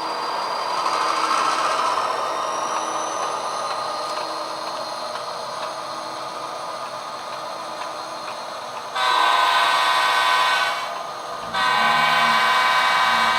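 HO scale model diesel locomotive's sound decoder playing the diesel engine sound running steadily, then sounding two long horn blasts, about nine and twelve seconds in, each close to two seconds long.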